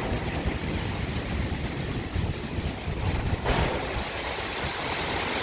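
Storm wind gusting and buffeting the microphone with a heavy rumble; about three and a half seconds in, a rushing hiss of heavy rain swells up and holds.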